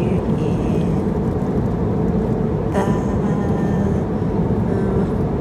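Steady engine and airflow noise inside an airliner cabin in flight, a constant low rumble. Faint voices rise briefly about three seconds in.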